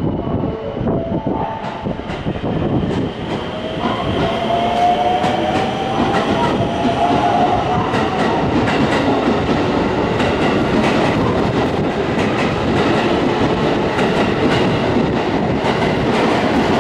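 A JR West rapid-service electric train pulls out past the platform. Its traction motor whine rises in pitch during the first several seconds as it picks up speed, and the wheels click steadily over the rail joints.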